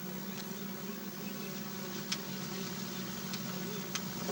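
Steady low hum of a vehicle's engine heard from inside the cabin, with two short sharp clicks about two and four seconds in.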